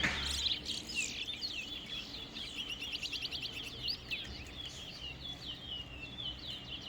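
Towa towa (chestnut-bellied seed finch) singing its competition song: a continuous run of quick sweeping chirps and trills, each finished song being counted in the race.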